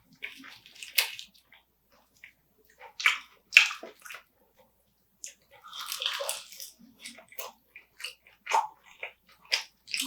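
Close-miked eating of spicy marinated raw crab: wet chewing, sucking and smacking with sharp crunches, louder about three and six seconds in.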